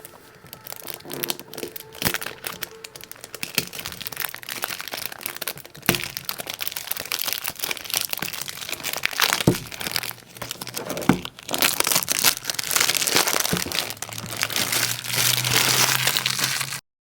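Perfume box packaging being handled and unwrapped: irregular crinkling and crackling with sharp clicks, growing denser in the second half, then cutting off suddenly near the end.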